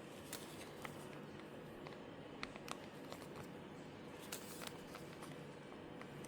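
Light, scattered clicks and taps of small objects being handled, about one or two a second, over a faint steady room hum.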